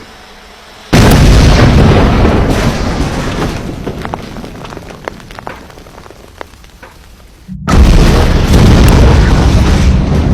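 Two large explosions. The first bursts about a second in and dies away over several seconds with scattered crackling. A second deep boom comes near the end and carries on as a heavy rumble.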